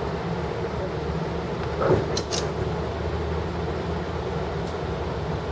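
Long Island Rail Road diesel-hauled passenger train running along the track, heard from inside the car as a steady rumble, with one brief louder clunk about two seconds in.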